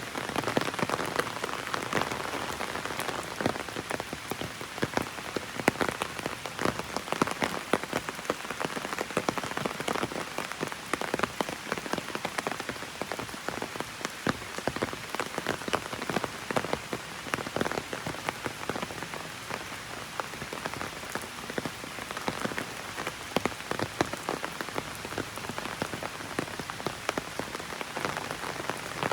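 Heavy rain drumming on an umbrella overhead: a steady dense patter of many sharp drop impacts.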